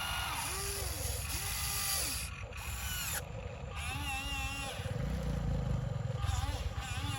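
Electric motor and gearbox of an RC dump truck whining in short bursts, each rising in pitch, holding and falling again as the throttle is blipped, over a steady low gear rattle.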